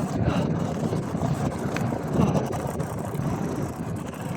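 Wind rushing over the microphone and the rolling rumble of a Marin Gestalt X10 gravel bike being ridden, a steady low noise with a few small ticks.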